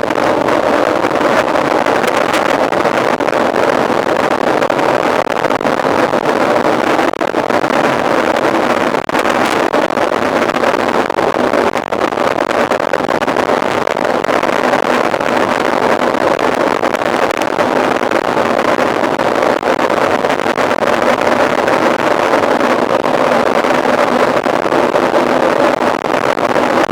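Steady rushing wind and tyre noise of a mountain bike ridden at speed, with wind buffeting the rider-mounted microphone.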